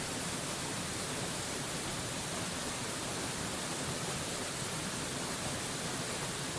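Waterfall rushing, a steady, even hiss spread from deep to very high pitch, with no splashes or changes.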